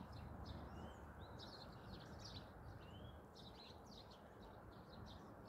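Faint songbirds calling: many short chirps and a few sliding whistled notes, over a steady low background rumble.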